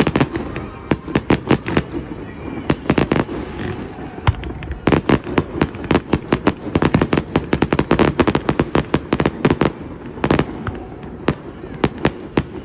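Display fireworks going off in rapid succession: many sharp bangs and cracks, often several a second. A short lull comes about four seconds in, then a dense run of bangs through the middle.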